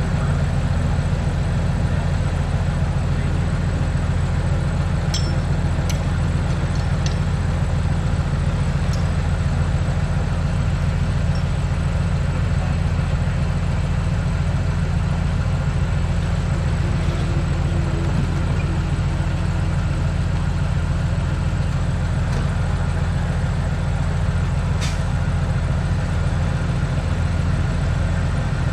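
Heavy diesel engine of earthmoving machinery running steadily at a constant pitch. A few sharp clicks come about five to seven seconds in, and one more near the end.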